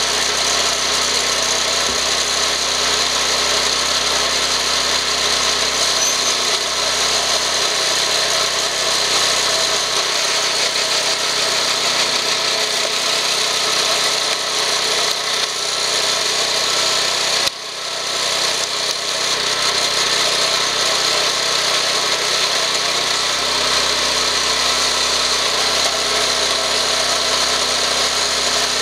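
Engine of a screw-type cone log splitter running steadily. Partway through, the sound briefly cuts out and then comes back.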